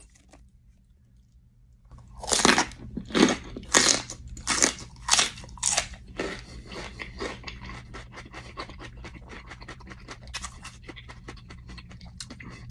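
A person biting into and chewing a crunchy snack. About two seconds in come about six loud, separate crunches, followed by quicker, quieter chewing crunches.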